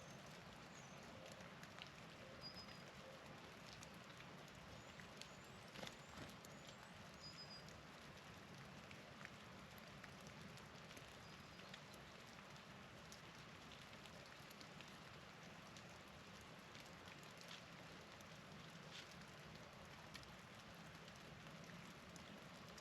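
Faint outdoor ambience: a steady soft hiss with scattered light ticks and patter, and a few short, high chip notes from small birds in the first half.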